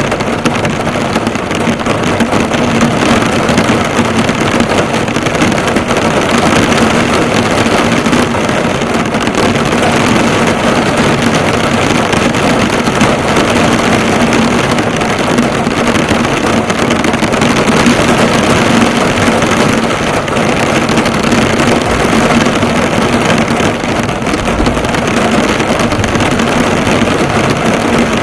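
Heavy rain drumming on a car's hood and body, heard from inside the car: a steady, dense patter of drops with a steady low hum underneath.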